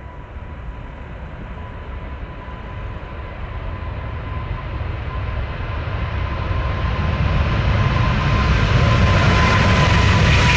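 Jet airliner approaching, its engine noise growing steadily louder with a high, steady whine. Near the end the whine begins to drop in pitch as the aircraft passes.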